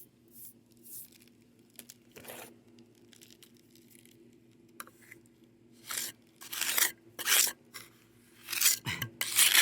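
A sponge being stroked and dabbed over fresh concrete to texture the surface. It makes a series of short, gritty rubbing strokes, louder and closer together in the second half. A faint steady hum runs underneath.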